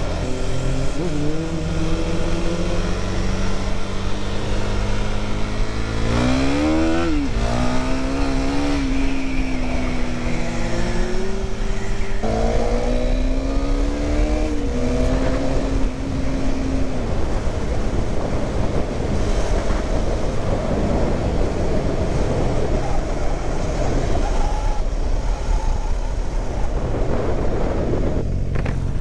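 Vehicle engine accelerating hard, its pitch climbing, dropping at a gear change and climbing again, twice; from about halfway on mostly a steady rush of wind and road noise.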